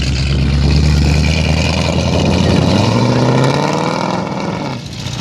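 Loud engine of a classic Ford Mustang running as it rolls slowly past, its pitch rising from about three seconds in as it accelerates.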